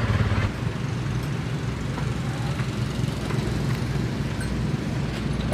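An engine running steadily at idle, a low rumbling hum that drops in level about half a second in and then holds steady.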